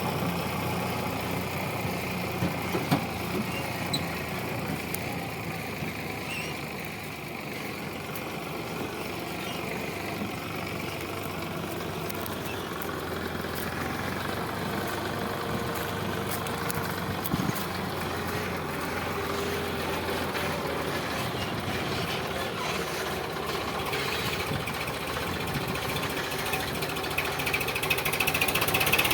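Sonalika DI 745 tractor's diesel engine running steadily while hauling a heavily loaded trolley, growing louder near the end.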